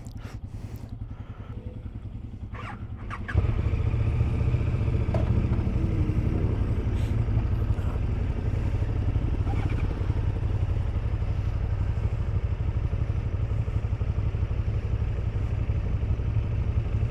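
Motorcycle engine running with a steady low rumble, which turns abruptly louder about three seconds in and then holds steady.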